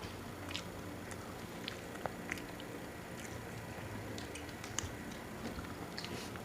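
A person chewing food close to the microphone, with scattered small sharp mouth clicks and smacks.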